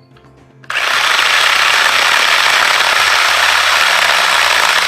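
GreenWorks 10-inch, 6-amp corded electric chainsaw switching on suddenly about a second in and running steadily at full speed, cutting through a thin, rotten branch.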